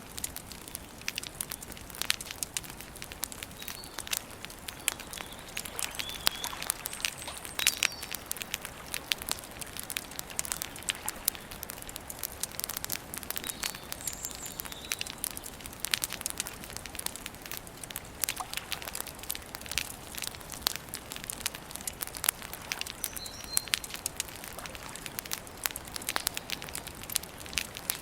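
Wood campfire crackling, with frequent irregular sharp pops. Faint, brief bird chirps now and then.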